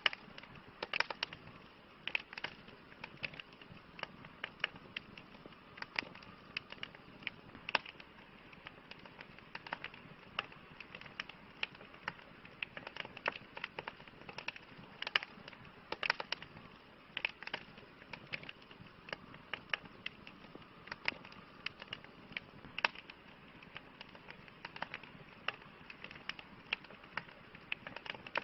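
Campfire crackling: irregular sharp pops and snaps of burning wood, several a second, over a steady soft hiss.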